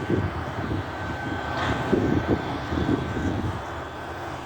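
Diesel engine of a front-loader garbage truck running, a steady low drone with a faint steady whine over it and a few louder surges.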